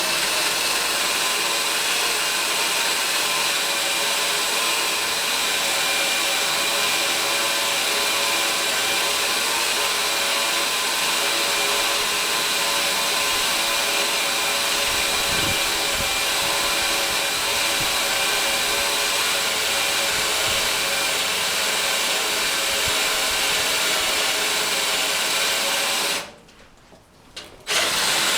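Power drill running steadily under load with a hardened steel cutting bit, cutting out a steel rivet in a truck frame. Near the end it stops for a second or two, then starts again.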